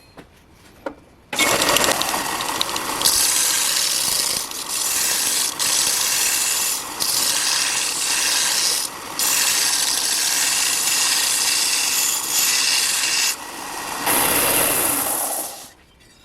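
Power tool running with a harsh, hissing noise, starting about a second in, broken by several brief pauses, and stopping near the end.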